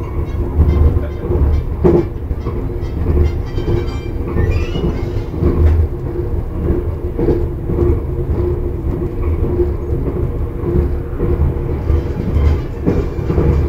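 Electric airport express train running at speed, heard from inside the carriage: a steady low rumble with a constant motor hum and occasional short knocks from the track.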